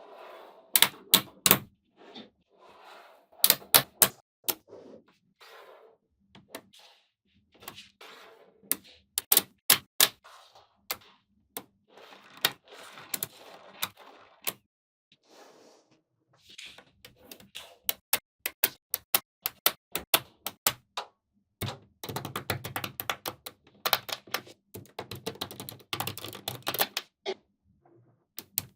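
Small magnetic balls clicking and snapping together, in single sharp clicks and quick clusters, with a long run of rapid clicks in the last third.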